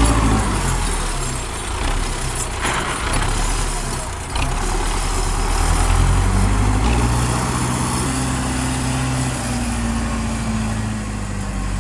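Belarus 510 tractor's diesel engine running while pulling, its pitch shifting a few times.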